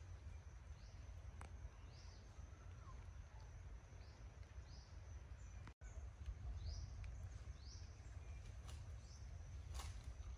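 Quiet forest ambience: short rising bird chirps repeating every half second to a second over a steady low rumble and a faint steady high tone, with a couple of sharp clicks.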